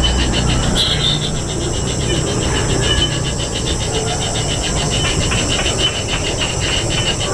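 Kingfisher nestlings calling in a fast, rattling chatter of rapid repeated notes, over a steady high hiss.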